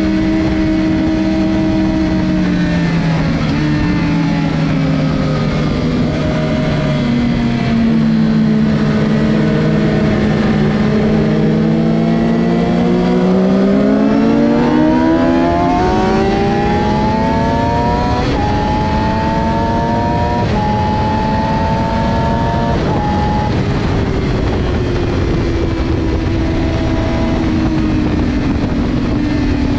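Suzuki GSX-R600's inline-four engine heard from on board at speed. The revs drop in steps through the first several seconds as the bike slows through downshifts, then climb hard from about twelve seconds with three quick upshifts before settling lower. Steady wind rush runs underneath.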